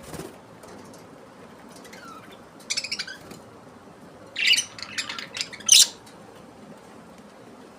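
Parrots squawking: a few short calls about three seconds in, then a louder run of squawks a second later, the last of them the loudest.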